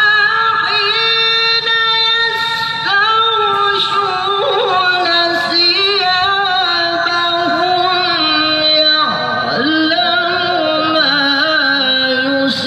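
Melodic Quran recitation (tilawah): a single voice draws out long, ornamented notes, with a brief break about nine seconds in and a step down to a lower pitch near the end.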